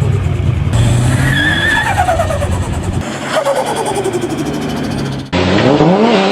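Turbocharged car engines running, with the turbo whistle falling in pitch as the throttle is lifted, twice, along with the flutter of the turbo. Near the end a louder engine revs hard, its pitch rising and wavering.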